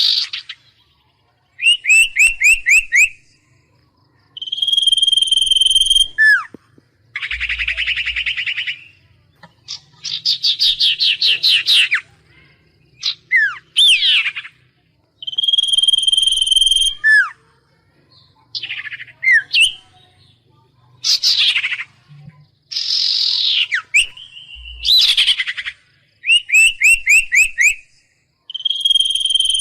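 A songbird of the kind called huýt cô in Vietnamese singing a varied song in separate phrases: rapid trills, quick down-slurred notes and steady whistled notes, each phrase a second or two long with short pauses between them.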